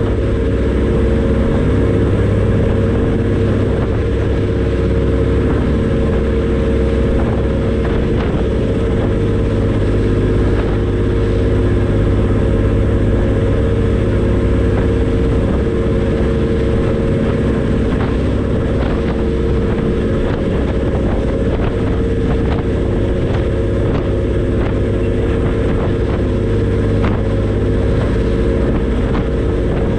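Passenger ferry's engines running steadily under way, a constant low drone with a steady hum.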